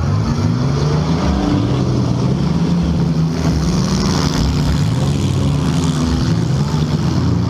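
Several compact cars' engines revving up and down at once, their pitches rising and falling over one another, as the cars run in a demolition derby heat.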